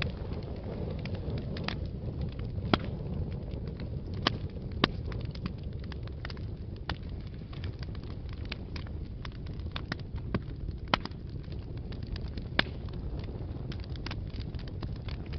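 Fireplace fire burning: a steady low rumble with irregular sharp crackles and pops, a few of them noticeably louder than the rest.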